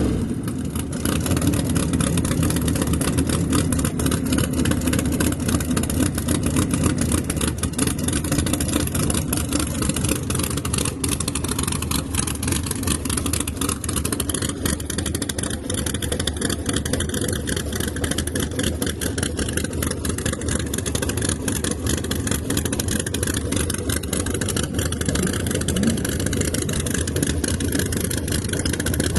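Drag car engines running at idle: a steady, rough rumble with no revving.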